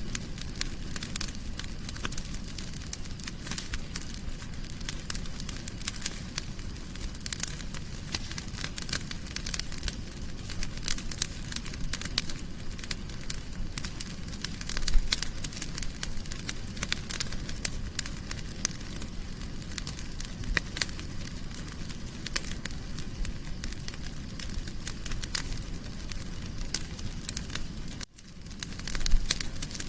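Wood fire crackling in a fireplace: a dense, irregular stream of small pops and snaps over a low rumble, with a louder pop about halfway through and another near the end. The sound drops out briefly just before the end.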